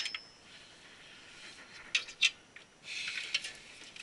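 Small hard computer parts being handled: two sharp clicks about two seconds in, then a brief rustle about three seconds in.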